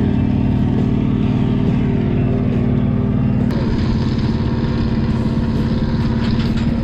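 NASCAR ride-along stock car V8 engines running loud and steady at a constant pitch, with an abrupt change in the sound about three and a half seconds in.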